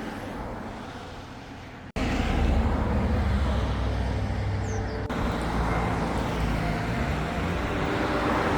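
Road traffic noise, with a motor vehicle going by and its engine rising in pitch near the end. The sound cuts abruptly twice, about two and five seconds in.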